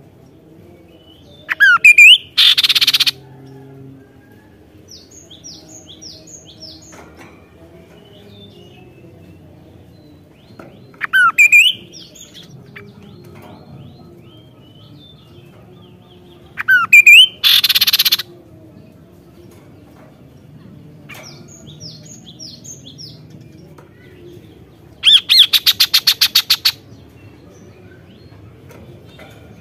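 Kaso-kaso bird calling loudly in four outbursts. Each is a couple of whistled notes sliding up and down, then a harsh rasping burst about a second long; the last outburst near the end is a fast rattle. Faint high chirps come between the outbursts.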